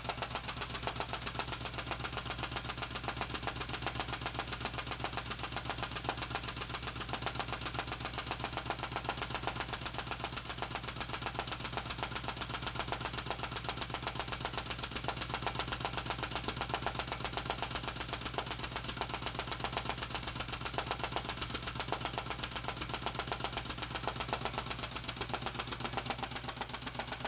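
Small homemade Scott vacuum engine (a flame-licker) running steadily, making a rapid, even mechanical clatter. It is hot, with the water in its hopper boiling, and running well.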